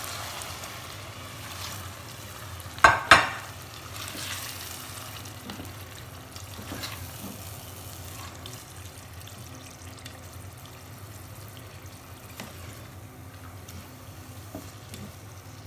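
Yogurt-marinated chicken being stirred into a pot of frying tomato masala: a low sizzle with the scrape and slop of a spoon and spatula in the pot. About three seconds in come two sharp knocks close together, the loudest sounds.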